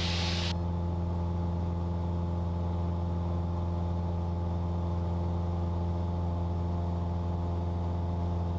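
Cessna 172's piston engine and propeller running steadily at climb power, an even drone heard from inside the cabin. A higher hiss cuts off suddenly about half a second in.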